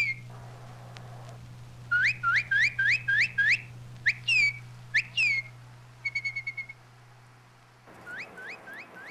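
Bird calls: runs of short, sharply rising whistled notes, a few falling ones, a quick trill of short notes about six seconds in, and more rising notes near the end.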